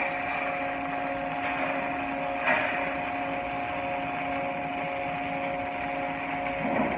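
Welding equipment running: a steady electrical hum with a hiss over it, swelling briefly louder about two and a half seconds in and again near the end.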